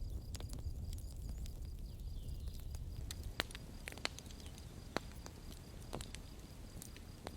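Campfire crackling: a steady low rumble with scattered small crackles and several sharp pops, about one a second in the second half.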